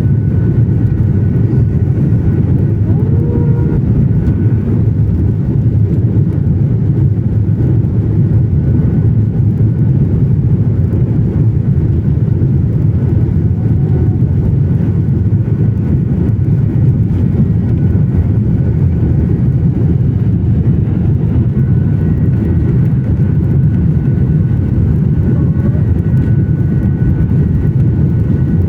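Jet airliner engines at takeoff thrust, heard from inside the passenger cabin as a loud, steady low rumble with a faint steady whine above it.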